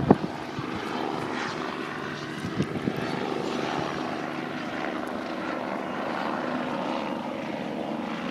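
Steady engine drone holding a constant pitch, with a few light knocks about two and a half to three seconds in.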